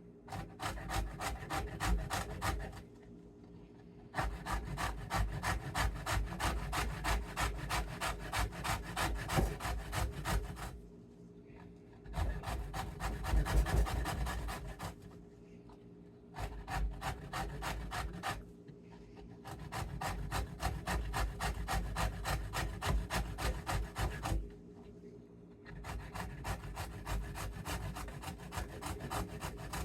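Raw turnip being grated by hand, rapid rasping strokes in runs of a few seconds broken by short pauses.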